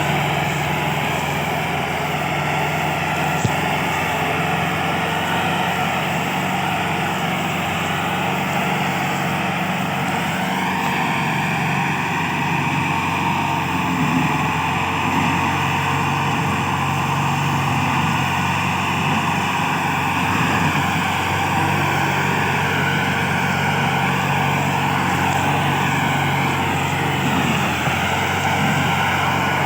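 Massey Ferguson 385 tractor's diesel engine running hard under heavy load, pulling an overloaded sugarcane trolley. Its pitch rises about ten seconds in, then holds steady.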